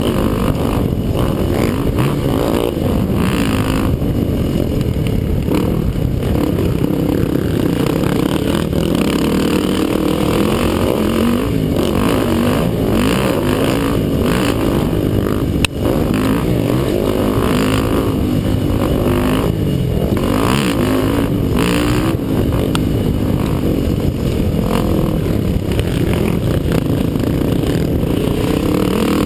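ATV (quad) engines running at race pace, their pitch rising and falling as the riders work the throttle. There is a brief break in the sound about halfway through.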